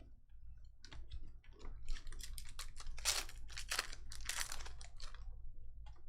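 Trading-card packs and cards being handled: a run of short crinkling, tearing rustles, busiest in the middle, among light clicks and taps, over a steady low hum.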